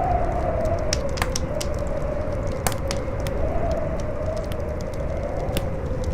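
Howling wind with a wavering, slowly falling and rising whistle, over a campfire crackling with scattered sharp pops.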